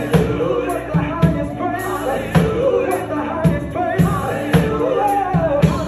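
Live gospel music: a voice singing a flowing melody over a steady drum beat.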